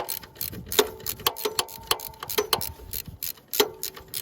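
Hand ratchet wrench clicking in short, irregular strokes, with metallic clinks that ring briefly, as a tight alternator mounting bolt is backed out bit by bit.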